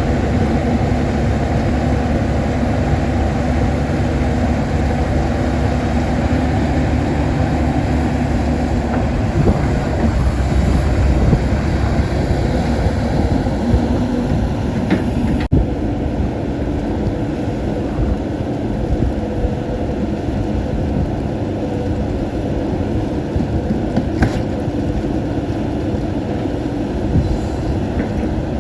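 Caterpillar 320D excavator's diesel engine running steadily at working speed, with an abrupt change in the sound about halfway through and a few short sharp clicks in the second half.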